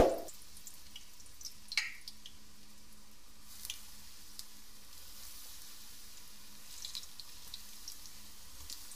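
Battered eggplant and onion slices frying in shallow oil in a nonstick pan: a faint, steady sizzle with scattered small pops and crackles as more slices go into the oil. A single loud knock right at the start and a sharper pop about two seconds in.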